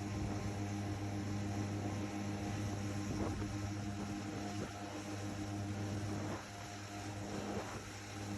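A steady low mechanical hum with several steady tones, like an engine or motor running at constant speed, dipping slightly in level about six seconds in.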